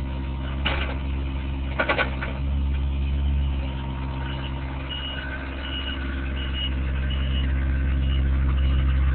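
Excavator's diesel engine running steadily while it digs out a tree's roots, with a few sharp knocks in the first two seconds. From about four seconds in, a series of short high beeps repeats every half second or so, and the engine grows louder toward the end.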